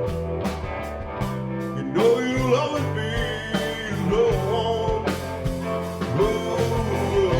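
Live blues-rock band playing, with electric guitar, bass and drums. The bass and drums keep a steady beat, and from about two seconds in a lead line bends up and down in pitch.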